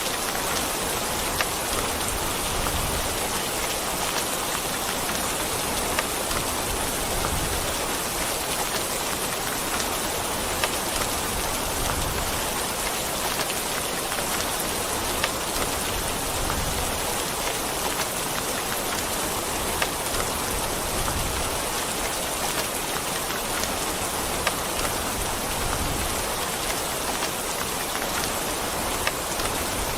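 Steady heavy rain falling on a surface, a dense even hiss with scattered sharp drop impacts.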